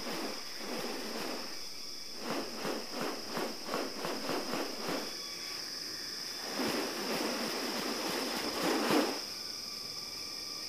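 Insects droning steadily at one high pitch. Over the drone comes a run of about a dozen quick rasping pulses, a few a second, and later a longer rushing swell that peaks and stops near the end.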